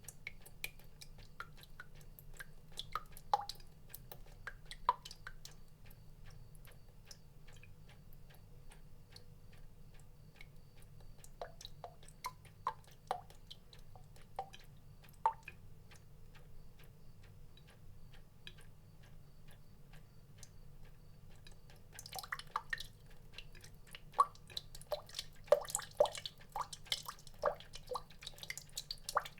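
Water drops falling one by one, each a short pitched plink at an irregular pace, sparse for most of the stretch and coming much more often from about two-thirds of the way through. A faint steady low hum runs beneath.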